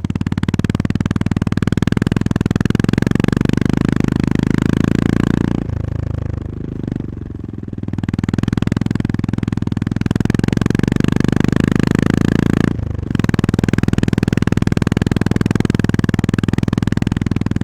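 Honda GB350S's air-cooled single-cylinder engine and exhaust under way, a steady pulsing note. The note drops away for about two seconds around six seconds in, and briefly again near thirteen seconds, then picks up.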